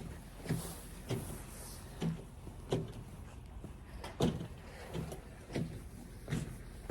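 Footsteps walking through snow, about eight steps at an unhurried walking pace.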